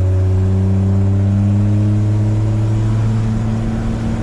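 1981 Chevy C10's 250 inline-six engine running at a raised idle, its speed creeping up slightly, then dropping back near the end while it is warmed up to check the coolant temperature.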